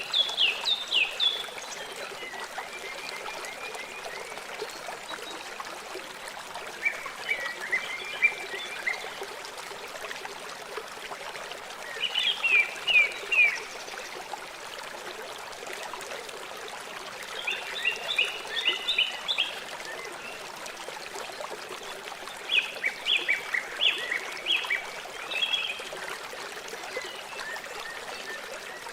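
River water flowing with a steady rushing sound. A bird sings over it in about six short bursts of quick, high notes, spread through the recording; these are the loudest sounds.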